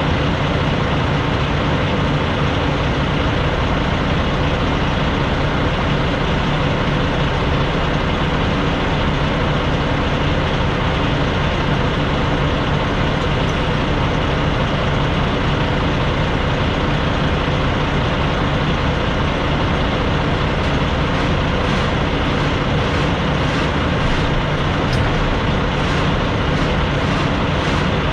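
Semi truck's diesel engine and road noise running steadily, as on the move.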